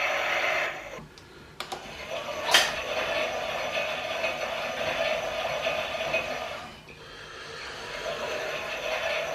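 Small electric motor of a Klein Miele toy washing machine whirring as it turns the drum. It stops about a second in, gives a few clicks and a sharp click, then starts whirring again. Near the end it slows briefly before picking up.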